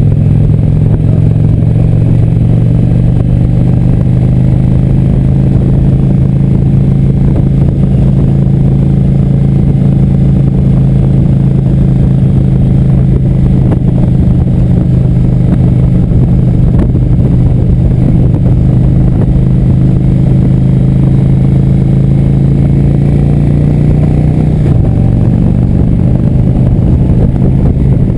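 Indian Chief Vintage motorcycle's V-twin engine running steadily at cruising speed while riding, its note dropping slightly near the end.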